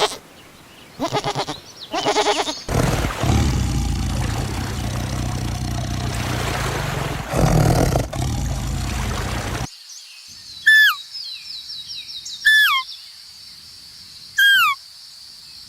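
Animal calls cut together: two bleating calls at the start, then about seven seconds of loud low noise, then a bird giving three short falling whistles, about two seconds apart, over a steady high-pitched whine.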